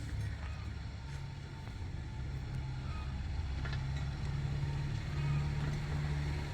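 An engine running steadily with a low, even hum, slightly louder about five seconds in.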